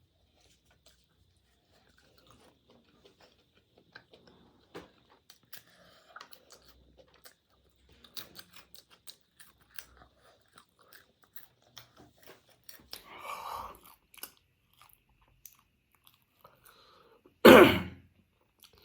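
Close-up chewing and crunching of fast food, with many small scattered mouth clicks. A noisier stretch comes about 13 seconds in, and one short loud burst near the end is the loudest sound.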